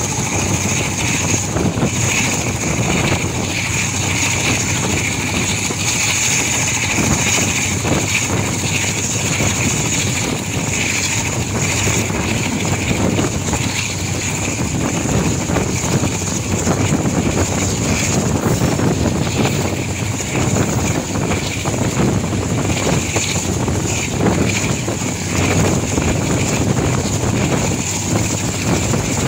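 Diesel locomotive engine running under throttle: a steady, loud engine noise with a high whine held over it.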